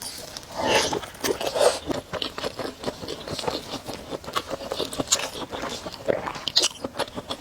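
A person chewing and eating noodles close to the microphone: a dense run of short wet clicks and smacks from the mouth, with a few longer, noisier mouth sounds about a second in.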